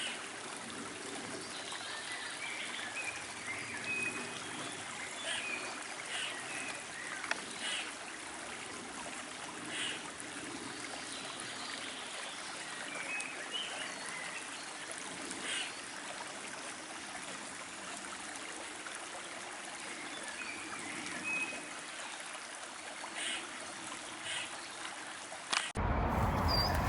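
Stream water running and trickling steadily, with short faint bird calls now and then. The sound changes abruptly to something louder about a second before the end.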